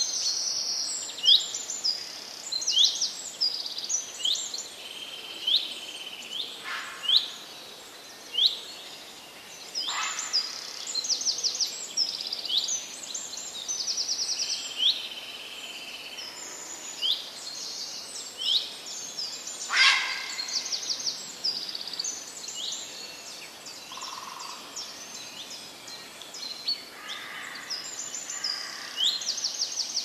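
Several small birds chirping and trilling in quick, high-pitched calls that overlap all through, with a few sharp clicks along the way.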